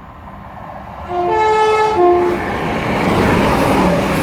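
Class 170 Turbostar diesel multiple unit sounding its horn about a second in: a three-tone of two notes, low, high, low. Under it the train's rumble builds as it runs through the station.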